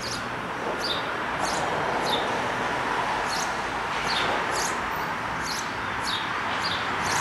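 A small bird calling over and over: short, high chirps that each slide downward, repeated roughly every half second to second. Under them is a steady background hiss that swells a little near the end.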